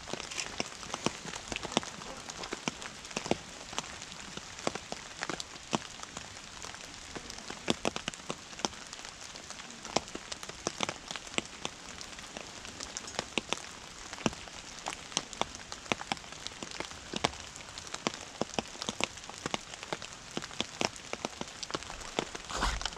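Steady rain, with many irregular sharp drops tapping close to the microphone.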